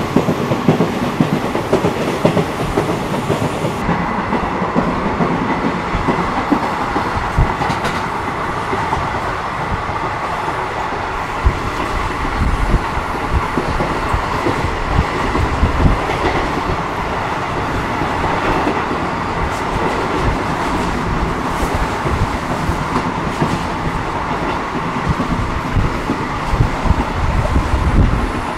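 ICF passenger coach running at speed: a steady rumble and rattle from the wheels on the track, with repeated clicks and knocks as they cross rail joints. A thin steady whine joins about four seconds in.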